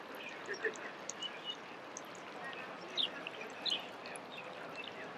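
Songbirds chirping and singing in short, scattered calls, over a steady background hiss.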